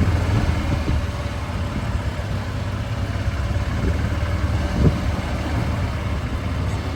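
Vehicle engines running at low speed, a steady low rumble, with one short knock about five seconds in.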